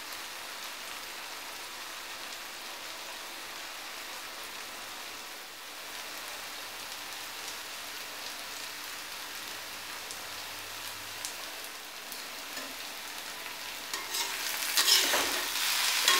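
Clam meat in masala sizzling on a low flame in a cast-iron kadai, a steady soft hiss. Near the end a spoon starts stirring and scraping it round the pan, louder and with sharp clicks.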